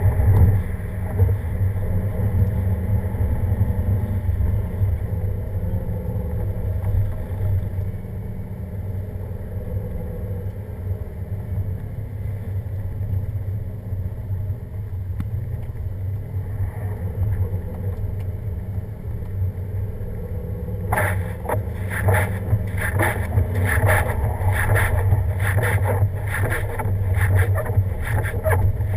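Steady low rumble of a vehicle driving a snow-covered winter road. About two-thirds of the way through, a rapid, irregular clatter of knocks starts and keeps going.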